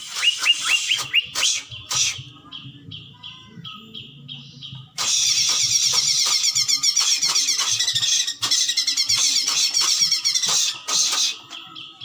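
Cucak ijo (green leafbird) singing: a quick run of short down-slurred whistles, then spaced single notes, then from about five seconds in a loud, fast, rapid-fire chattering trill that breaks for a moment and carries on to near the end. The rapid-fire bursts are the 'tembakan' (shots) that keepers prize as the sign of a bird in top singing form (gacor).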